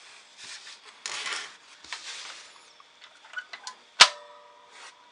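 Handling noises: rustling and small clicks, then one sharp metallic clang about four seconds in that rings briefly.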